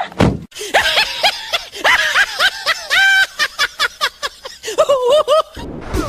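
A quick run of short, high-pitched laugh-like calls, each rising and falling in pitch.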